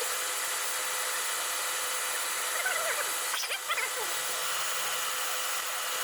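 Machine spindle running steadily as a 19 mm drill, reground as a cutter, bores out the welded spark plug well of a VK50VE aluminium cylinder head, with a few brief wavering squeals from the cut about three seconds in.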